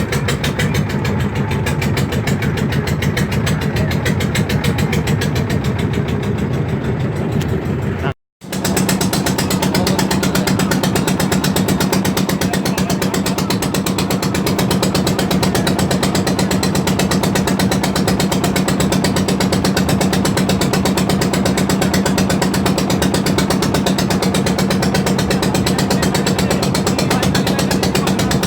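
Boat engine running steadily with a fast, even chugging clatter. It breaks off briefly about eight seconds in and comes back at the same steady pace.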